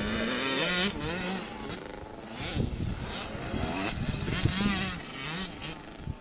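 Motocross dirt bike engines revving, their pitch rising and falling repeatedly as the throttle is opened and shut, with louder surges near the start and again about four and a half seconds in.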